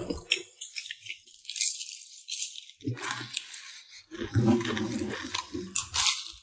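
Crunching of crispy battered deep-fried food being bitten and chewed: a quick, irregular run of crackles, with some muffled murmuring partway through.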